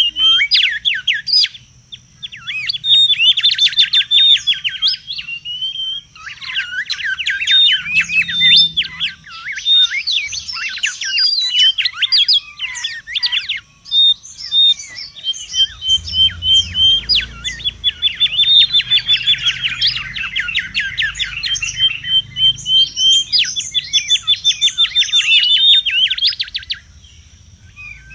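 Mangrove whistlers singing busily: long runs of rapid sweeping whistled notes, broken by series of short, evenly spaced single notes on one pitch.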